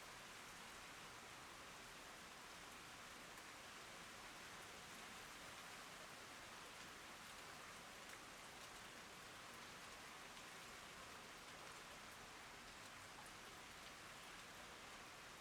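Rain falling steadily: a faint, even hiss with scattered drop ticks.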